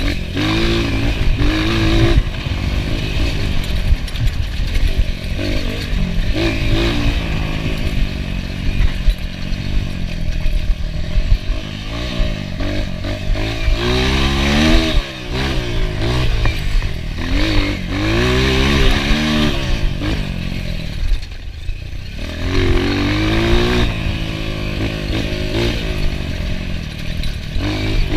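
Enduro motorcycle engine being ridden hard, its pitch repeatedly rising and falling as the throttle is opened and closed and gears change, with a short let-off near the end.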